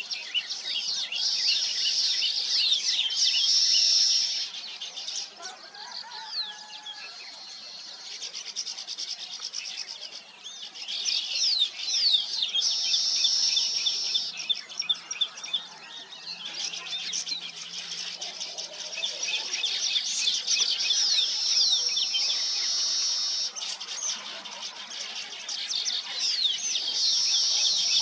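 A colony of weaver birds chattering: a dense mix of quick chirps and buzzy calls that swells in bouts every few seconds and then eases off.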